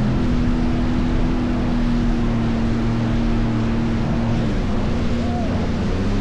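Jet ski engine running steadily at speed over rushing water and wind noise, its pitch shifting slightly about four and a half seconds in.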